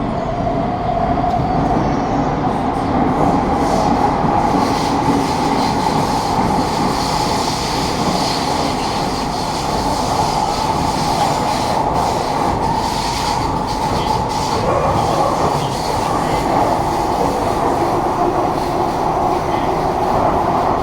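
Kawasaki-Sifang C151A metro train heard from inside the carriage, running through the tunnel. There is a steady din of wheels and track, and a motor whine that rises in pitch over the first few seconds and then holds steady.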